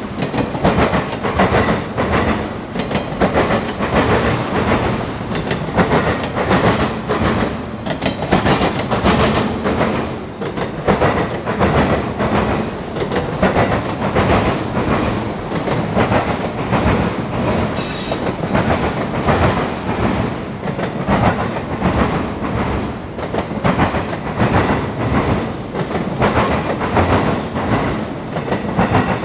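Freight train of autorack cars rolling past at speed, its wheels clacking steadily over the rail joints. A brief high-pitched tone sounds once, about two-thirds of the way through.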